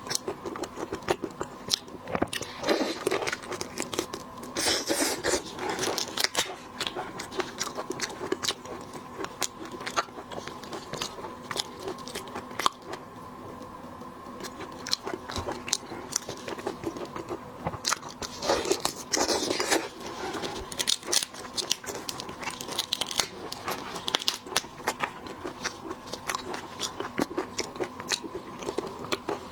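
Close-up eating sounds of shellfish: shells crunching and cracking, with chewing and many small wet clicks. Louder clusters come a few seconds in and again about two-thirds of the way through, over a faint steady hum.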